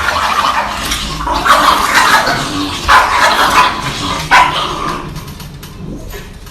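A dog barking several times in the first four or so seconds, the barks fading off after that.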